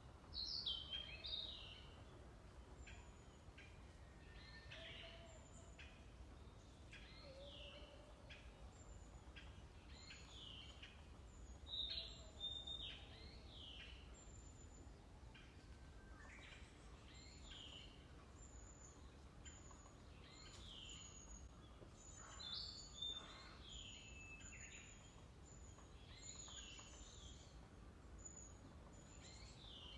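Faint birdsong from several birds: many short, falling chirps, with a thin high note repeating through it. The calls come louder about a second in, near the middle and again about three-quarters of the way through.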